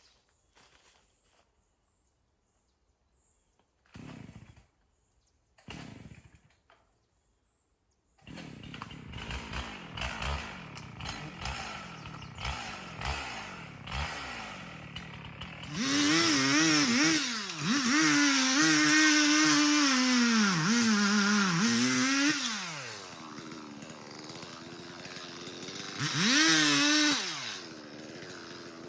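Two-stroke chainsaw. Two short pulls on the starter cord come about 4 and 6 seconds in, and the saw catches at about 8 seconds and idles. It then runs at full throttle for about six seconds, its pitch sagging and wavering as it cuts into a dead ash tree, drops back to idle, and gets one short burst of throttle near the end.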